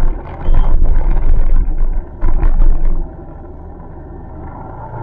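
Motorcycle riding along with wind buffeting the microphone: loud, uneven low rumbling gusts for about three seconds, then a quieter, steadier rumble of the running bike.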